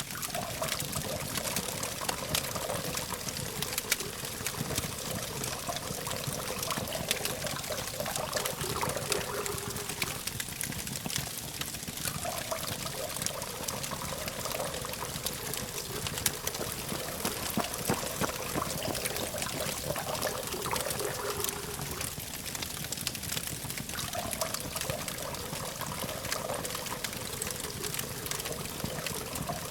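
Campfire burning with dense, irregular crackles and pops over a steady hiss. A wavering sound in the middle range swells and fades in stretches of a few seconds.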